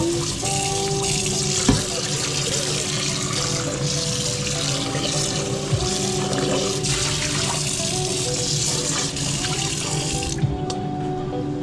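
Kitchen tap running water into a sink, turned off near the end.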